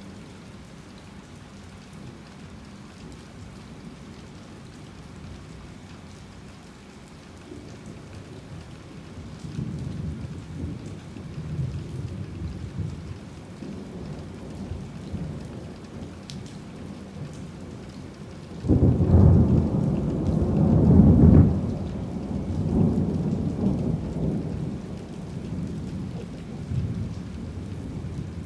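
Heavy rain falling steadily with thunder rumbling. About two-thirds of the way through, a loud peal of thunder breaks in suddenly, then rolls on and slowly fades.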